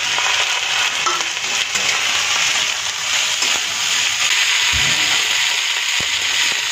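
Green chickpeas, chopped onion and green chilli sizzling steadily in mustard oil in a kadhai, stirred with a flat metal spatula.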